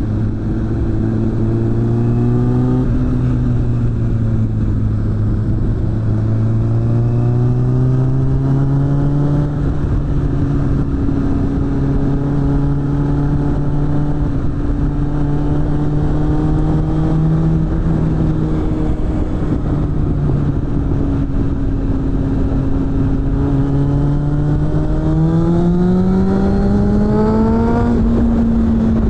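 Suzuki GSF600 Bandit's inline-four engine through a BOS aftermarket exhaust, pulling through the gears under way. The pitch climbs and drops sharply at shifts about 3 and 6 seconds in. It holds fairly steady through the middle, then climbs again near the end and drops once more.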